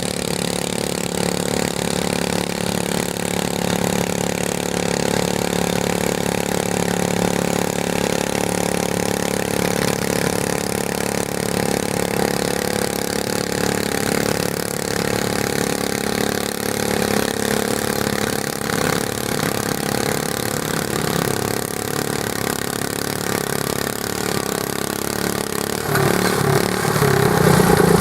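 Garden tractor engine running steadily, getting louder about two seconds before the end.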